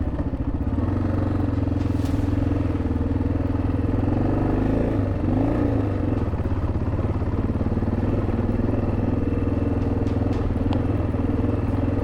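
1987 Yamaha XT600Z Ténéré's single-cylinder four-stroke engine running steadily under way, its pitch dipping and rising briefly about five seconds in. A few faint clicks near the end.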